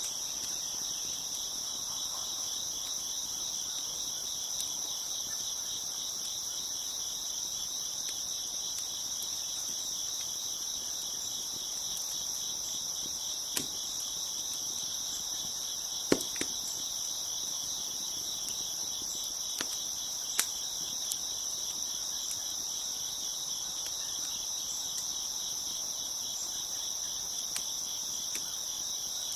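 A dense chorus of crickets chirping steadily, with a handful of sharp pops from a crackling wood fire, the loudest about halfway through.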